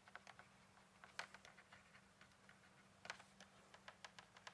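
Near silence with faint, irregular clicks and taps scattered throughout, over a faint steady hum.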